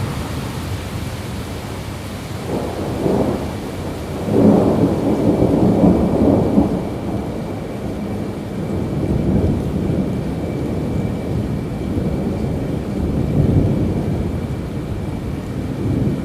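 Steady rain with rolling thunder rumbling in waves, the loudest roll about four to seven seconds in.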